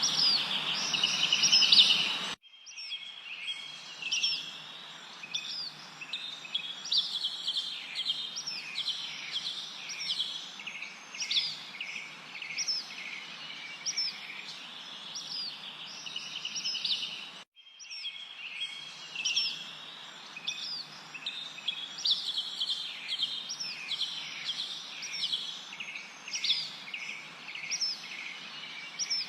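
Several songbirds chirping and whistling, with many quick chirps and repeated down-curving whistles, over a light hiss. The recording cuts off abruptly about 2 seconds in and again about 17 seconds in, each time restarting the same stretch of song, a loop of roughly 15 seconds.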